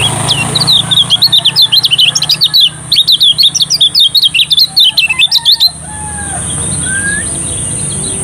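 Kecial kuning, a white-eye, singing a rapid run of high, sharp chirps and twitters for about five seconds. The song breaks off, and a few softer separate whistles follow.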